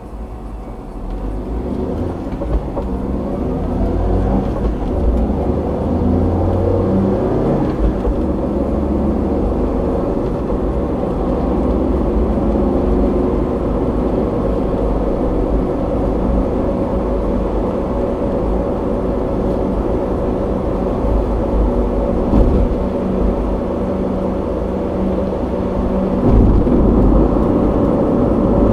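A car driving, its engine and road noise picked up by a dashboard camera inside the car. The sound grows louder over the first few seconds, then holds steady.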